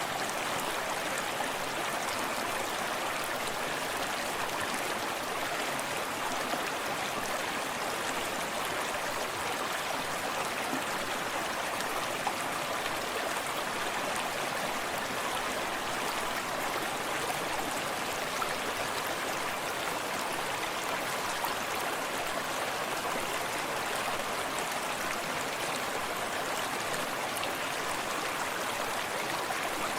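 Forest stream running steadily over rocks, a continuous rush of flowing water with small splashes and gurgles.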